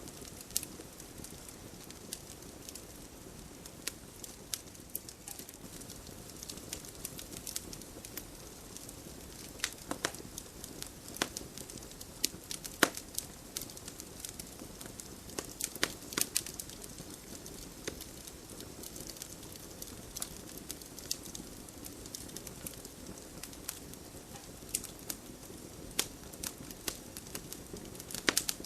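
Campfire crackling: irregular sharp pops and snaps of burning wood, a few much louder than the rest, over a steady low hiss of the flames.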